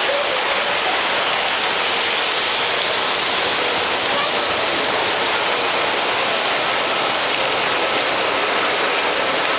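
Steady crowd murmur, many voices blending into an even hiss.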